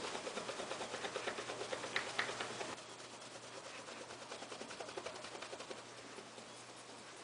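Hand rubbing metal polish onto the pin heads of a straight razor's scales, in quick, even back-and-forth strokes that grow softer after about three seconds.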